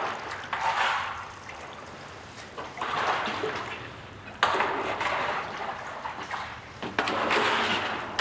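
Meltwater of an underground river rushing and splashing inside a glacier ice cave, swelling and easing in several surges, two of them starting sharply about halfway through and near the end.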